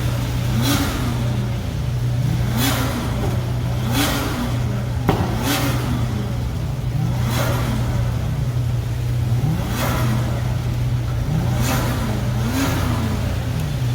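A car engine revved over and over, about seven or eight rises and falls in pitch a second or two apart, each rev peak topped by a brief rasp from the exhaust, over a steady low drone.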